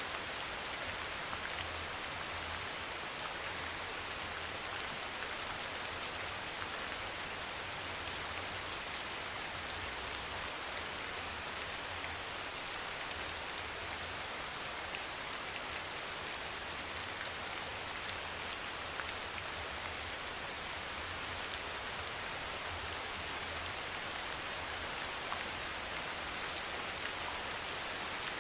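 Steady rain falling and pattering on surfaces, an even hiss full of small drop ticks, with a faint wavering low hum underneath.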